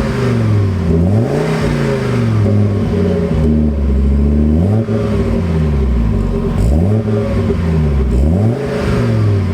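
Audi S2 Coupe's turbocharged inline five-cylinder, breathing through a Fox cat-back exhaust with no middle silencer, revved in a series of blips. The pitch climbs quickly and falls back, about five times.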